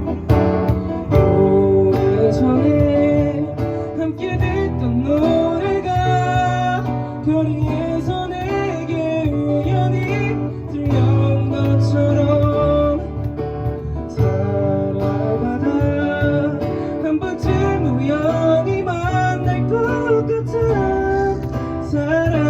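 Live band playing an instrumental break of a ballad: guitar to the fore, over bass, keyboard and cajon, with a melody line that bends and glides in pitch.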